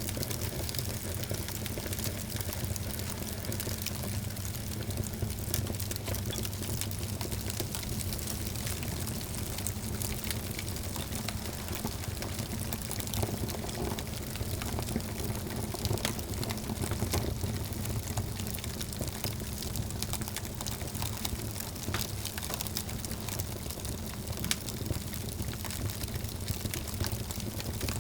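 Wood fire burning in a fireplace: a steady hiss and low rumble with many small, irregular crackles and pops.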